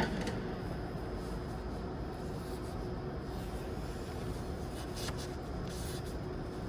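Paintbrush scrubbing over engine-bay parts: a steady scratchy rubbing, with a sharp click right at the start and two short hissy bursts about five and six seconds in.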